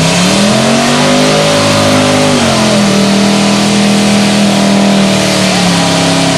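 Car engine held at high revs during a burnout. The pitch climbs, drops briefly about two and a half seconds in, then holds steady and high, over a loud hiss from the spinning tires.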